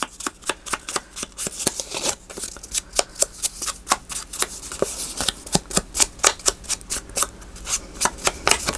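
Paper and card being handled: a run of quick, irregular clicks and light rustles, several a second.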